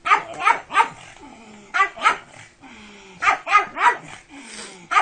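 Pug barking in three quick bursts of sharp barks: about three, then two, then four.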